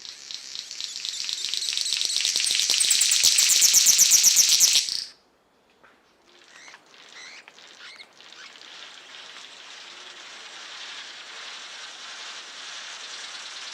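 Wild birds calling. A loud, fast run of repeated high notes grows louder for about five seconds and stops abruptly. After a short gap come a few quieter calls over a steady high hiss of background.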